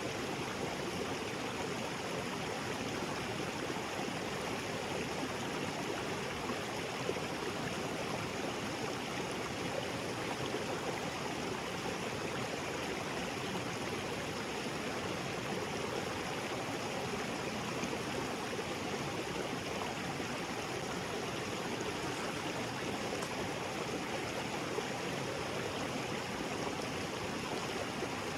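Small waterfall and creek flowing steadily, a constant rush of water.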